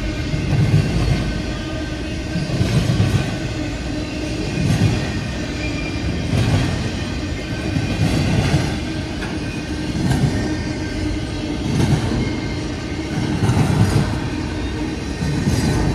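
CSX freight train rolling past, its wheels clacking in a regular rhythm, louder about every two seconds as each set of wheels goes by, over a continuous rumble.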